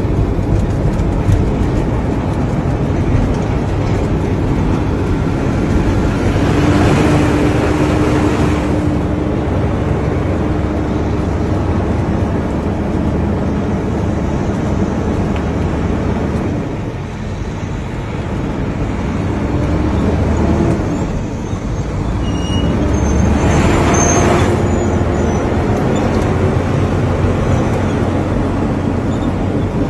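Dump truck's diesel engine running steadily, with two brief hissing rushes, about seven seconds in and again about 23 seconds in.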